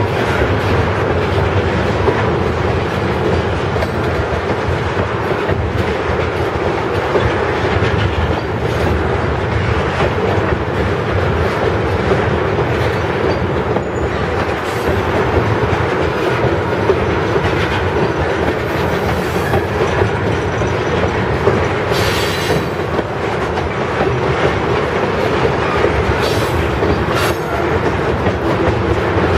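Freight train of crude-oil tank cars rolling past: a steady rumble of steel wheels on rail with clicking over the rail joints, and a few brief wheel squeals in the second half.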